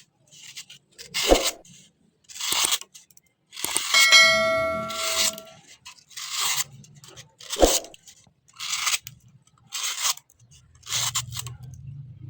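Repeated scraping strokes on metal, roughly one a second, with two sharp knocks and a brief metallic ring about four seconds in.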